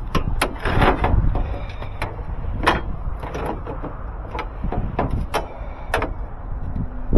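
Irregular knocks and clunks, several in quick succession about a second in and more spread through the rest, over a steady low rumble.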